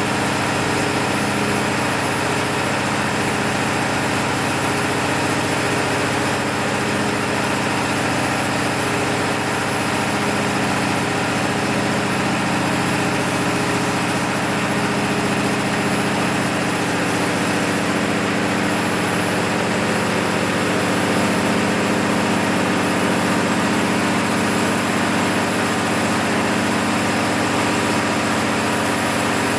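Six-cylinder diesel engine of an MEP-006A 60 kW military generator set running at a steady speed during a load test after a full overhaul.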